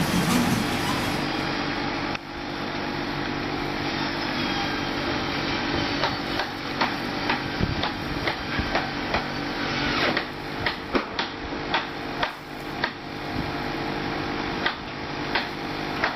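Light clicks and knocks, one or two a second from about six seconds in, over a steady mechanical hum: hard plastic toy vehicles being handled and set down.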